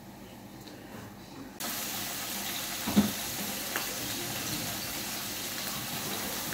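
Food sizzling in oil in a frying pan: a butternut squash slice and spinach frying beside potato galettes. The steady sizzle starts suddenly about one and a half seconds in, with a single knock of the pan about halfway through.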